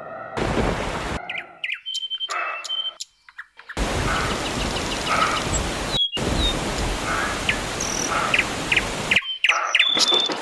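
Small birds chirping and calling in short, quick notes, in abruptly spliced pieces of outdoor sound; through the middle a steady rushing noise sits behind the birdsong.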